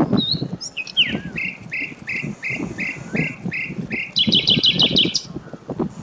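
A bird calling: a run of short repeated notes, about three a second, then a quicker run of higher notes about four seconds in that stops suddenly. A low rough background noise runs underneath.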